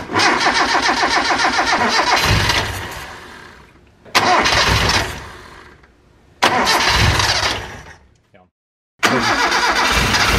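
Toyota 5K four-cylinder engine starting for the first time on its freshly rebuilt Weber 32/36 carburettor: it fires and runs in three short spells that each die away, then after a brief silence it runs again steadily near the end.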